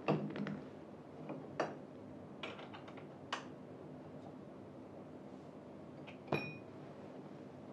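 Scattered clicks and knocks of metal chair parts and tools being handled during assembly, with a sharper metallic clink that rings briefly about six seconds in.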